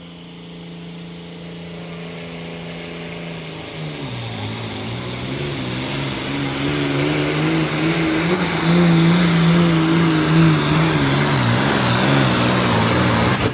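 Hot Farm class pulling tractor's diesel engine at full throttle dragging a weight-transfer sled down the track. About four seconds in, the engine note drops and wavers as the load builds. It grows steadily louder and then falls away suddenly near the end.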